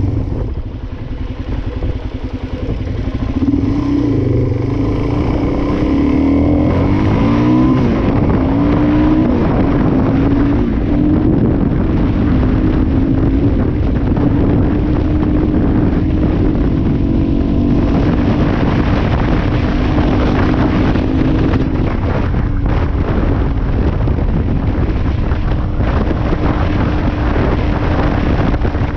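Suzuki DR-Z400S's single-cylinder four-stroke engine running while being ridden off-road. It eases off briefly about a second in, revs up and down a few seconds in, then pulls steadily.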